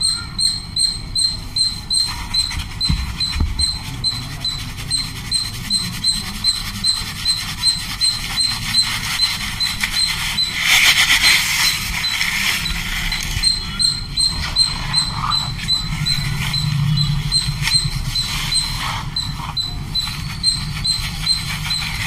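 A bird chirps one short high note over and over, about twice a second, at an unchanging pitch. About halfway through, a brief rushing hiss of dry powder being poured into a plastic dish.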